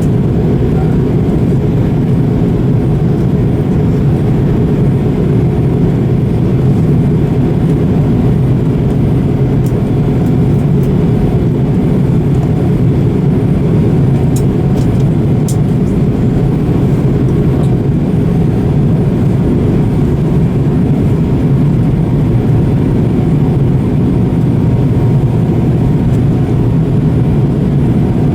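Steady low drone of an airliner's engines and airflow heard inside the passenger cabin in flight, holding even throughout.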